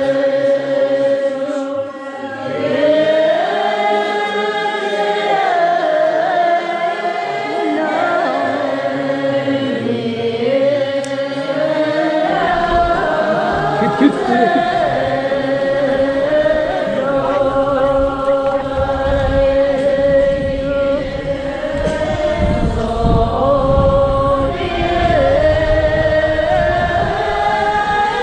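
A group of voices chanting in long held notes, several pitches sounding together. About twelve seconds in, a low rumble joins underneath the chant.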